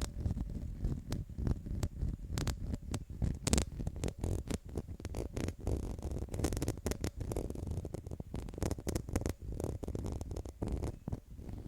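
Close-miked ASMR tapping and scratching: many quick, irregular taps over a steady low scratchy rumble.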